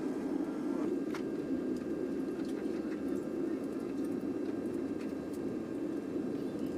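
Steady roar of engine and airflow noise inside a jet airliner's cabin, with a few faint clicks.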